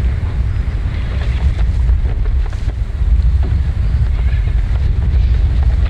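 Strong wind buffeting the microphone on a small open fishing boat: a loud, steady, low rumble.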